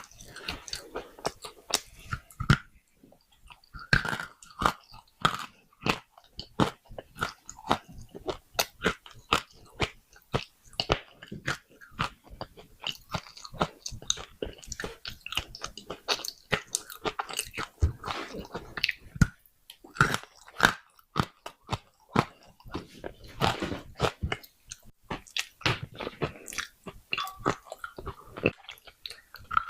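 Baked clay pot pieces being bitten and chewed: a dense, irregular run of sharp crunches and cracks.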